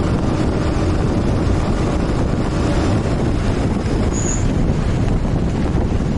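Motorcycle under way: a steady rumble of engine and rushing wind on the microphone, with a brief high chirp about four seconds in.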